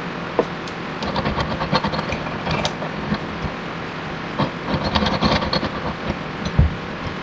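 Clattering metal-on-metal tool noises in quick clusters and a few heavier knocks, over a steady low hum, from hand tools working a bearing splitter on a wheel bearing's inner race.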